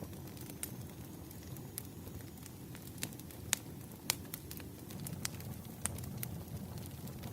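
Campfire crackling: a steady low rumble of burning wood with sharp, irregular pops and snaps, about eight clear ones.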